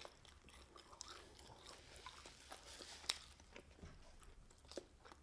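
A person faintly chewing food, with soft scattered mouth clicks and one sharper click about three seconds in.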